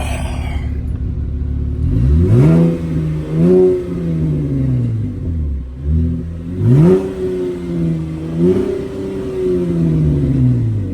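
A 2017 Camaro's V6 with its muffler deleted, idling and then revved: two rises in pitch, each followed by a quick second blip, before the revs fall back to idle.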